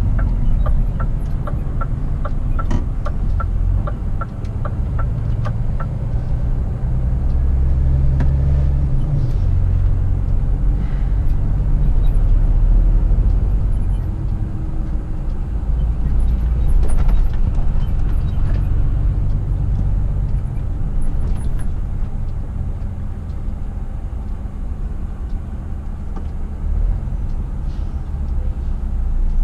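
Scania R450 truck's 13-litre six-cylinder diesel engine running while the truck is under way, heard from inside the cab as a steady low rumble with road noise. A regular ticking, about two or three a second, goes on for the first several seconds.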